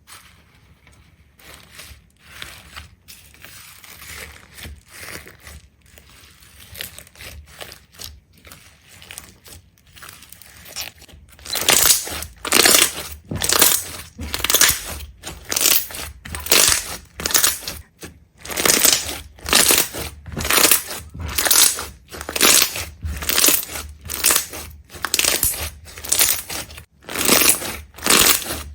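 A rhythmic series of crisp crunching strokes, a bit more than one a second. They are soft at first and become much louder about eleven seconds in.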